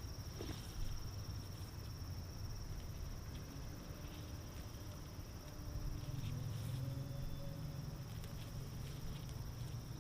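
Insects calling outdoors, a steady high-pitched shrill that does not let up, over a low rumble that grows a little about six seconds in.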